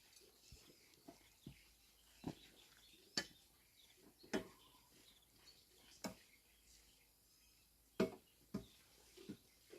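A series of short, sharp knocks at irregular intervals, about ten in all, the loudest one about eight seconds in.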